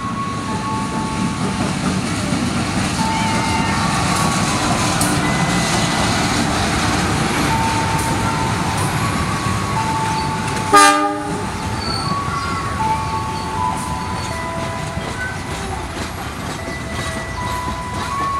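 Diesel-electric locomotive and passenger coaches passing close by with a steady rumble, and one short, loud horn blast about eleven seconds in.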